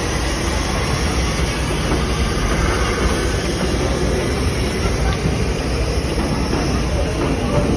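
A train running on the line: a steady low rumble with rail and running noise throughout.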